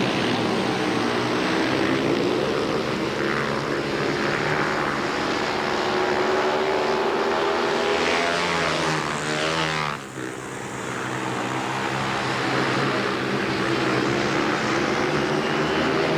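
Speedway motorcycles' single-cylinder 500 cc methanol engines racing flat out around the dirt oval, several engines together, their pitch rising and falling through the bends. The sound drops briefly about ten seconds in, then picks up again.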